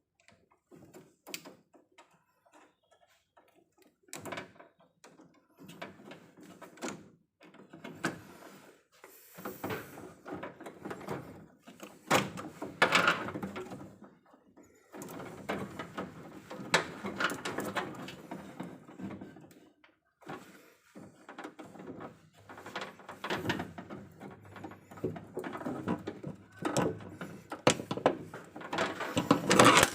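Irregular knocks, clicks and rustling of hands and tools at work on an electrical distribution panel and its cables, busier from about a third of the way in, with sharper knocks now and then.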